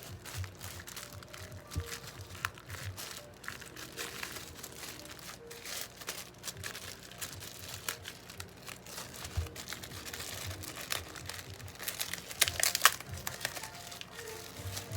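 Crinkling and rustling of packaging, with small clicks and knocks of parts being handled, and a busier flurry about twelve seconds in. Quiet background music runs underneath.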